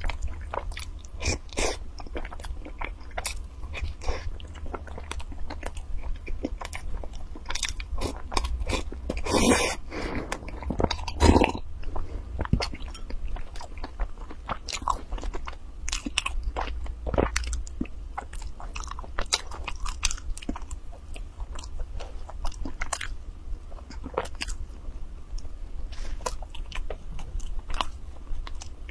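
A person chewing and biting soft bread dipped in milk: irregular mouth clicks throughout, with two louder bursts about nine and eleven seconds in.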